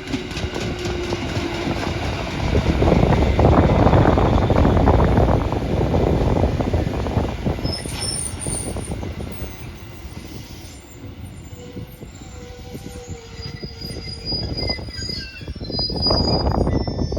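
A train running past: its rumbling noise swells to a peak, fades, and rises again near the end, with faint high-pitched squeal of wheels on the rails.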